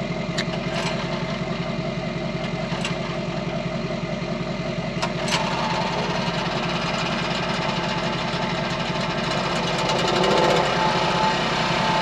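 International 424 tractor's gasoline engine idling with an even pulsing beat while it warms up. A few light clicks come in the first half, and a steady whine joins about five seconds in.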